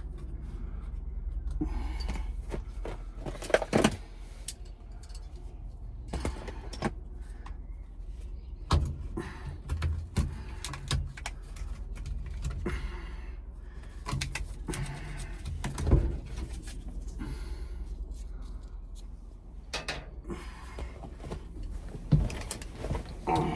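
Scattered clicks, knocks and rattles of hand tools and a plastic steering-column dust cover being worked loose on a 1980 Chevy truck, over a steady low hum.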